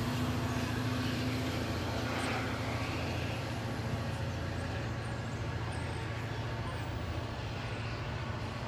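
Diesel locomotive of a commuter train pulling away: a steady low engine hum that slowly fades as the train recedes.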